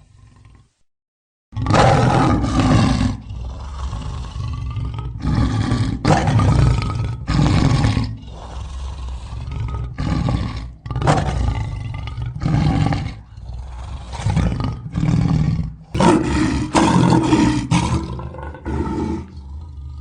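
Lion roaring: a bout of loud roars about a second apart, ending in a quicker run of shorter grunts.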